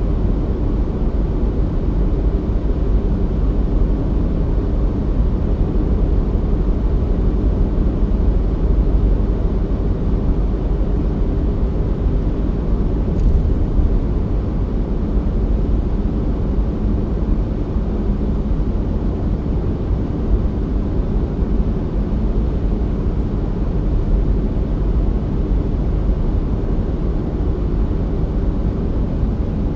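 A car driving at a steady pace, its engine and tyres making an even, unbroken low rumble.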